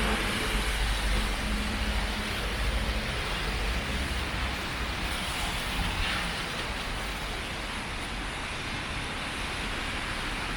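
Steady rain and vehicle traffic noise: an even hiss over a low rumble, with an engine hum that fades away in the first few seconds.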